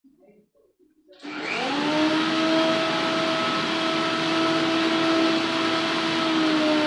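Electric blender switched on about a second in: its motor whine rises quickly, then runs steadily.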